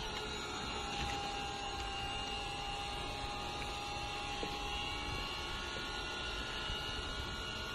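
A steady machine hum with a noisy background and several steady high tones over it.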